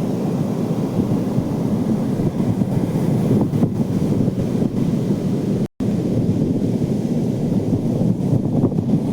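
Surf washing onto a beach with wind buffeting the microphone: a steady, deep rushing noise. It drops out to silence for an instant a little over halfway through.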